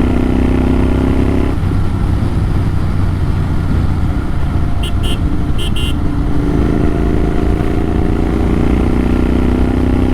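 Motorcycle with an AEW TE102 exhaust and its dB killer removed, running loud with the engine note climbing slowly in pitch under acceleration, easing off for a few seconds and then climbing again. Around five seconds in, a horn gives four short beeps in two pairs.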